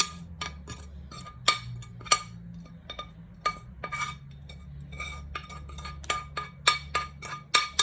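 Metal cutlery repeatedly tapping and scraping against a dish while food is scooped out: many sharp, irregular clinks, each ringing briefly on the same note.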